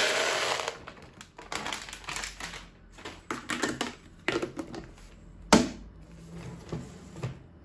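Dried chickpeas poured into a storage container, a rush of rattling at first, then scattered clicks and taps of handling, with one sharp knock about five and a half seconds in.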